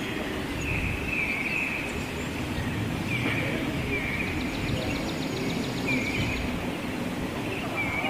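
Wild birds calling: short high notes repeated every second or so, with a fast ticking trill for about a second in the middle, over a steady low rumble of background noise.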